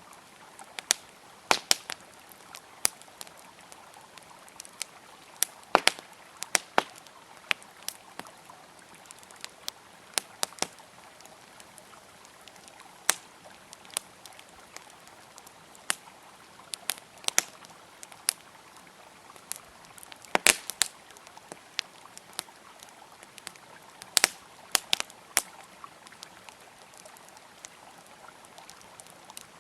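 Wood campfire crackling with irregular sharp pops and snaps, a few louder ones among them, over the steady rush of a flowing river.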